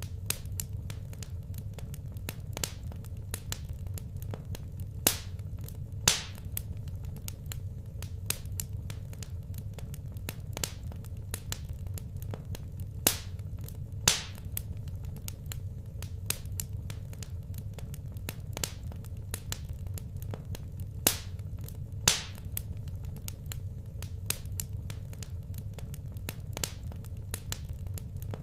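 Wood fire crackling in a fireplace: irregular small snaps, with a few much louder pops, over a steady low hum.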